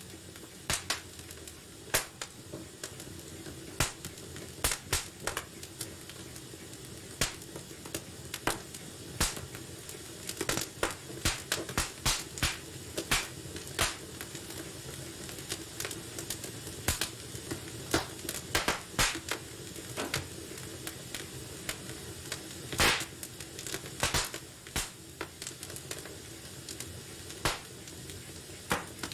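Fire burning in a fireplace and crackling: irregular sharp pops and snaps over a steady hiss. The pops come thickest in the middle, with one louder pop about two-thirds of the way through.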